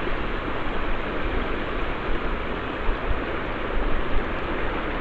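Steady rush of river water, with a low buffeting rumble of wind on the microphone.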